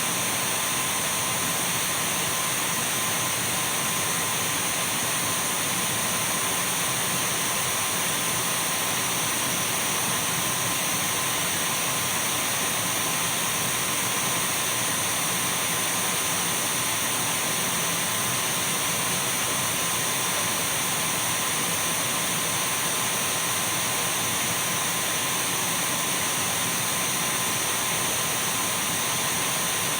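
Dyson V12 cordless stick vacuum running continuously at one steady speed: an even rush of air with a thin, high motor whine held over it and no change in pitch or level.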